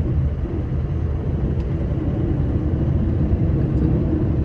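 Scania R560 truck's V8 diesel engine running steadily under way, a continuous low rumble with road noise.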